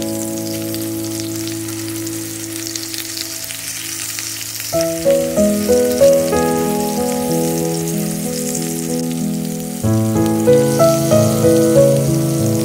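Beef kababs frying in oil in an electric skillet, a steady sizzle. Melodic background music plays over it, starting a new phrase about five seconds in and again near the end.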